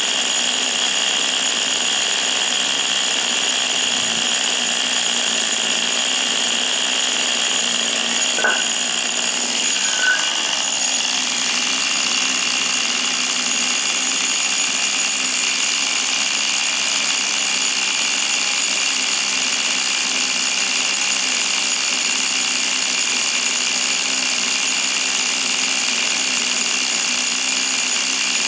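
Tamiya TGS 1/10 RC car's small glow-fuel engine running steadily with a high, even whine, with two short blips about a third of the way in; the engine is in good running order.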